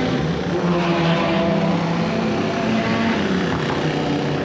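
Race car engines running, several engine notes overlapping in a steady drone whose pitches shift slowly up and down.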